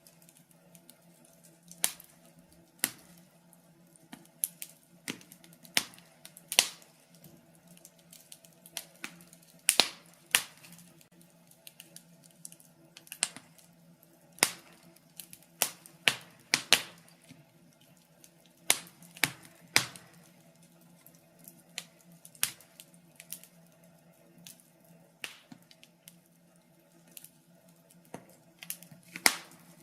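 Wood fire burning in a fireplace, crackling with irregular sharp pops and snaps, a few every couple of seconds, over a faint steady low hum.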